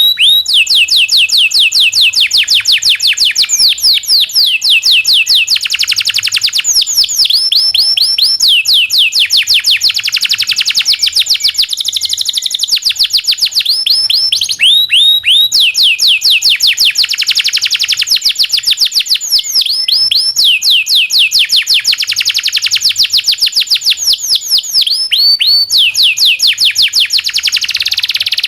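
Domestic canary singing a long, vigorous song of rolling trills: fast runs of high, down-sweeping notes at about five a second, broken by short pauses every few seconds.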